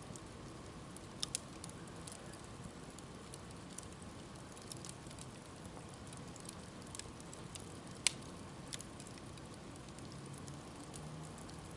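Campfire crackling, with scattered sharp pops over a steady low hiss; the loudest pop comes about eight seconds in.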